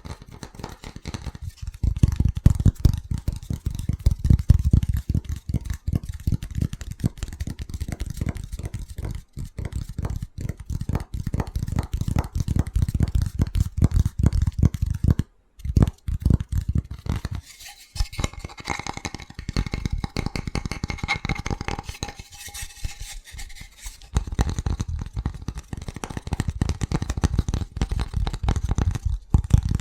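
Fast, aggressive tapping on an object, a dense run of quick taps several per second. For a few seconds past the middle the tapped object rings with a clear tone under the taps.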